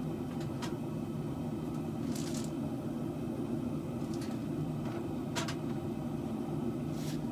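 A steady low hum, with a few short scraping strokes of a hand tool worked on the steel katana blade, spaced a second or two apart.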